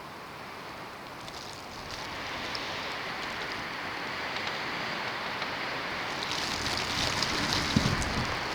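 Snowstorm wind blowing steadily, growing stronger about two seconds in, with a few gusts buffeting the microphone near the end.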